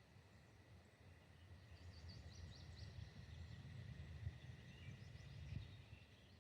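Faint outdoor ambience: a low wind rumble on the microphone that swells in the middle, with small birds chirping from about two seconds in.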